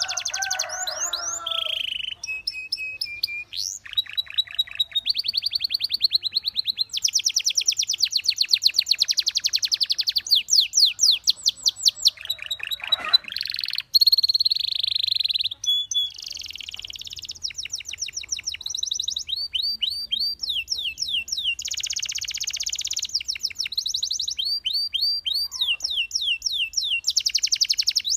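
A Belgian canary singing a continuous song of rapid high trills and rolls, each run of repeated notes switching to a new tour every second or two with only brief gaps.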